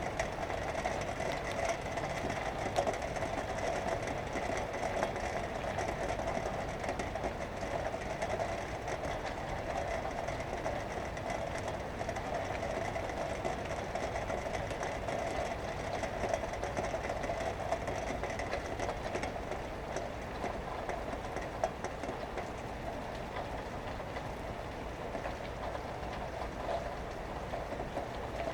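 Steady rumble of passing traffic mixed with rain, heard through an open window, easing a little after about twenty seconds.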